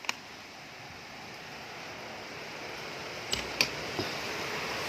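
Strong storm wind making a steady rushing noise that grows slowly louder. There is a sharp click at the start and three short knocks about three and a half to four seconds in.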